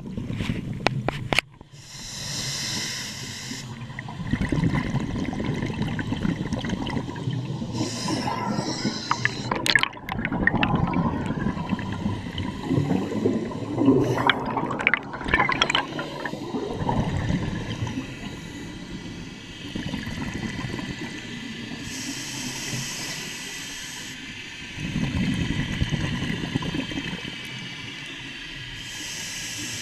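Scuba diver breathing underwater through a regulator: a hiss on each inhale alternates with a rough bubbling rush on each exhale, in slow cycles several seconds apart.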